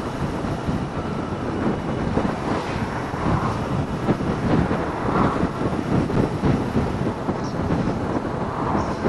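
Wind buffeting the microphone over the steady running of a Suzuki Inazuma GW250 motorcycle's parallel-twin engine and road noise while riding.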